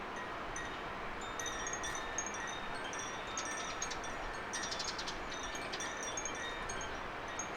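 Small garden birds giving high, thin chirps and a quick trill about halfway through, over a steady rustle of wind in leaves.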